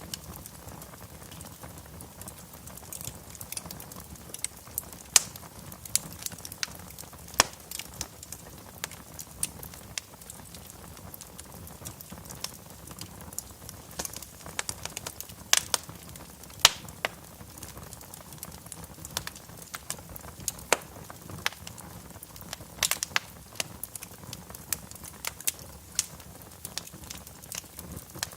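Wood fire burning in a fireplace: irregular sharp crackles and pops over a steady low hiss.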